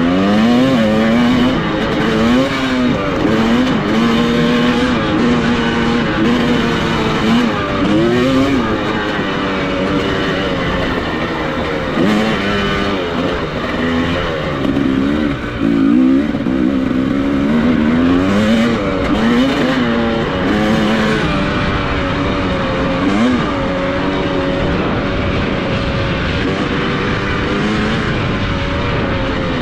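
Dirt bike engine being ridden hard, its pitch climbing and dropping over and over as the throttle opens and closes and the gears change.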